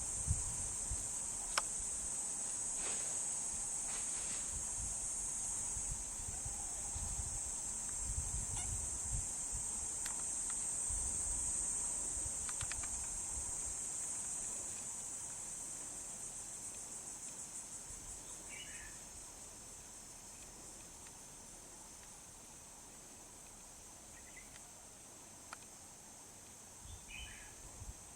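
Steady high-pitched insect chorus, fading over the second half, with low rumbles in the first half and two short bird chirps near the end.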